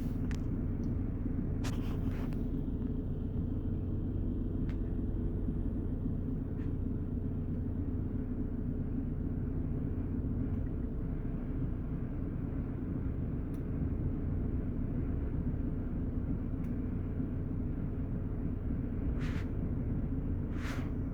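Steady low rumble of an idling vehicle, with a few brief faint clicks, the clearest two near the end.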